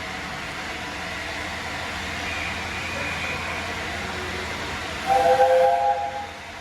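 A steam locomotive's whistle sounds once, about five seconds in, for about a second, several notes at once, over a steady hiss.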